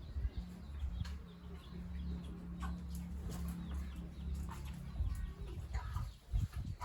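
Short, scattered bird calls over a steady low hum.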